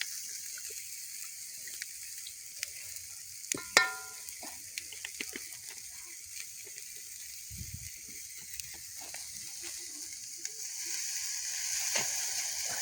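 Oil sizzling and crackling in an iron tacho heating over a wood fire, with one sharp metallic clink just under four seconds in. The sizzle grows louder near the end.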